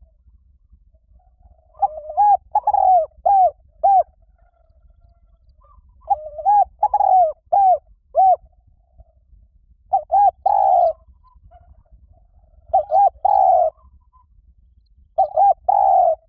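Spotted dove cooing: five short phrases of several coos each, repeated every few seconds.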